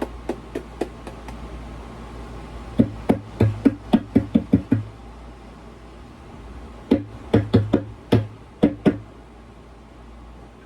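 Homemade electric cigar box guitar played through a Line 6 amp during a test of its pickups and controls: a few light taps, then two short runs of quickly picked notes, over a steady electrical hum from the amp.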